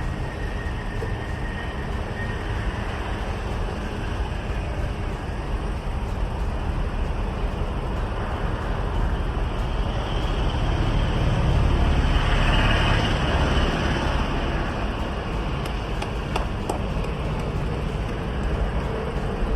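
Road vehicle noise: a car's engine and tyre noise with traffic, steady, growing louder about halfway through and then easing.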